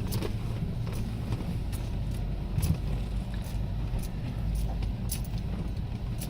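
Jeep Wrangler JK crawling over a rough trail, heard from inside the cabin: a steady low engine and drivetrain rumble with frequent sharp rattles and knocks as it bounces, one knock a little louder about two and a half seconds in.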